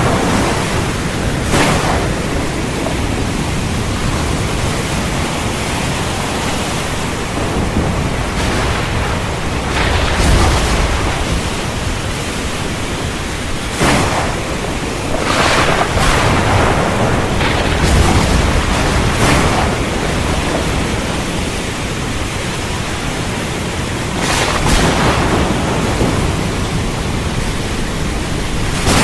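Heavy rain falling steadily, with several sharp claps of thunder and deep rolling rumbles, the heaviest rumbles about ten and eighteen seconds in.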